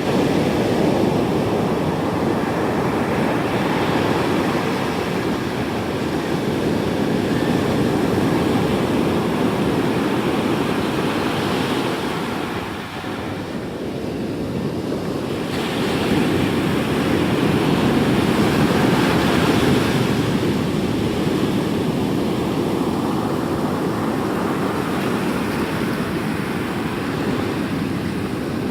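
Heavy surf from a stormy sea: waves breaking and washing in as one continuous rush that swells and eases slowly, dropping off briefly about halfway through before building again.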